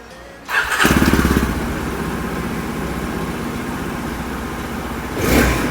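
Yezdi Adventure's 334cc liquid-cooled single-cylinder engine starting up about half a second in, then settling to a steady idle. The engine revs up briefly near the end.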